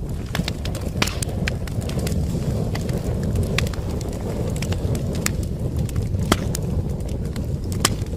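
Wood fire crackling in a fireplace: a steady low rumble of burning with irregular sharp pops and snaps, a few louder ones about a second in and near the end.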